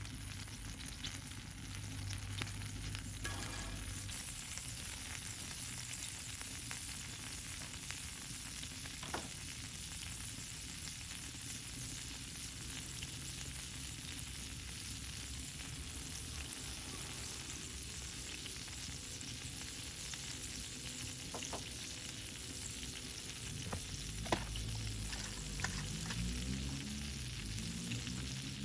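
Food sizzling steadily in a hot pan, with scattered sharp pops and clicks.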